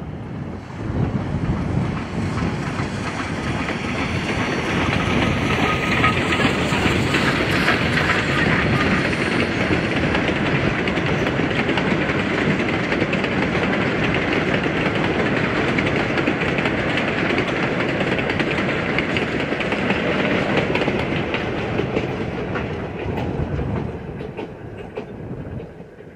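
A train passing close by: steady wheel-on-rail noise that swells about a second in, holds, and fades away near the end.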